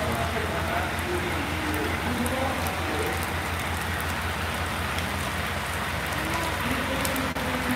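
Rain coming down strong in a steady hiss, with a low pulsing hum underneath.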